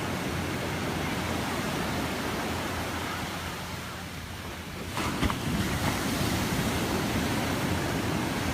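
Ocean surf washing in steadily, with wind buffeting the microphone. About five seconds in there are a couple of sharp clicks and the noise gets a little louder.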